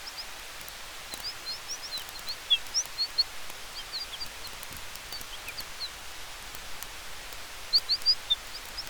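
Campfire burning with a steady hiss of wind in the trees and faint sharp crackles, while short high chirps come and go, bunching up around a second and a half in and again near the end.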